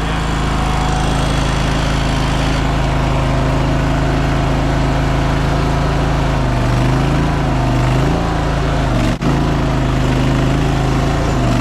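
Small gas engine of a Chinese mini skid steer running at full throttle, its pitch dipping and recovering several times in the second half as the machine is worked. There is a split-second dropout in the sound about nine seconds in.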